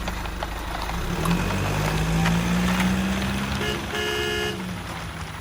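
Toy truck's electric motor running with a steady low hum, sounding two short electronic horn toots a little before the end.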